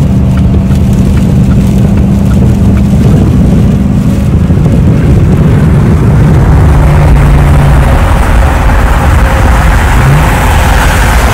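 A road vehicle driving in the rain: a steady low engine hum that shifts pitch a few times, under road and rain noise that swells in the second half.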